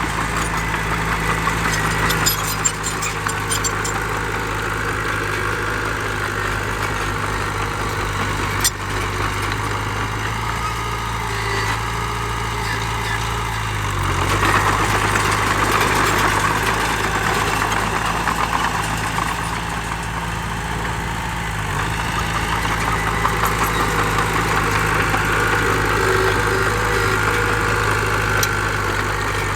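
Heavy diesel engine of earthmoving machinery running steadily, louder and busier about halfway through and again near the end. Two sharp knocks come within the first nine seconds.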